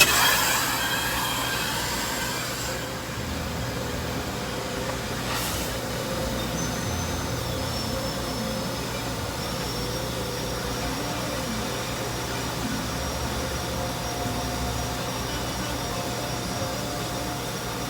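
Steady mechanical drone with a few faint steady tones running through it, easing a little about three seconds in.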